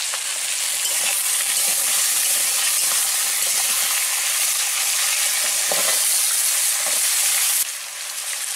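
Chopped potato and vegetables sizzling as they fry in hot oil in a pan, stirred with a metal spatula, with a steady hiss and faint scrapes. The sizzle drops suddenly near the end.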